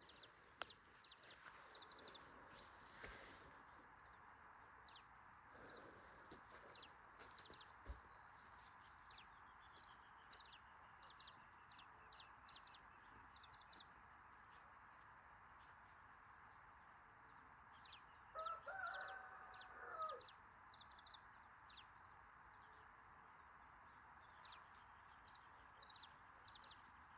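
Small birds chirping: many short, high chirps repeat irregularly over a steady background hiss. About two-thirds of the way in, a distant rooster crows once for about two seconds.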